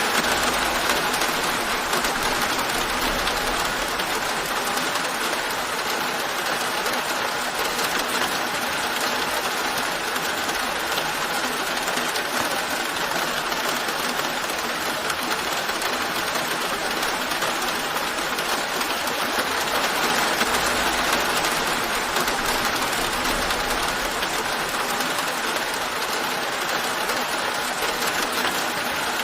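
Steady rain falling, an even hiss that swells slightly now and then.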